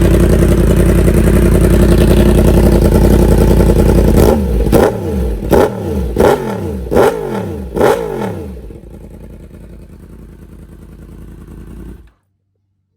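Yamaha R1 sport bike's inline-four engine held steady at high revs, then blipped five times in quick succession, each rev falling away. It settles to a quieter, lower running note, then cuts off suddenly.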